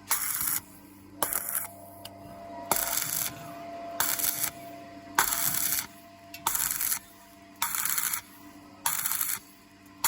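Welding arc on thin-walled square steel tube, struck and broken over and over: about eight short crackling bursts of half a second each, one roughly every second and a bit. This is the stop-start stitching used on thin tube to keep from burning through.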